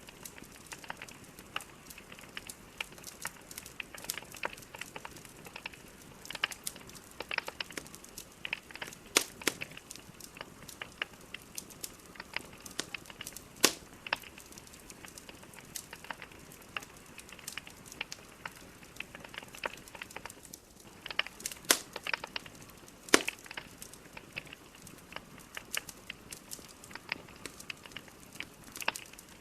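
Logs burning in a fireplace, crackling with frequent irregular sharp pops and snaps over a soft steady hiss. A handful of louder snaps stand out, the loudest about three-quarters of the way through.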